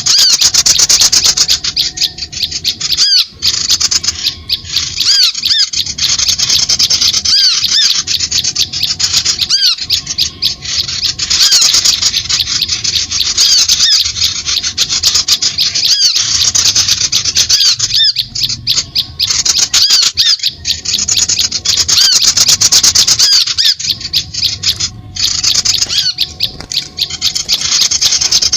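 Bird-luring call recording: loud, rapid, high-pitched chirping and squawking from small birds. It is a near-continuous stream of quick clicks and short up-and-down whistled notes, with brief pauses every few seconds.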